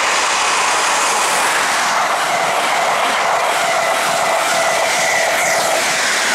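High Speed Train (InterCity 125) passing close at speed: a loud, steady rush of wheels on rail and of air, with a steady whine in it from about two seconds in.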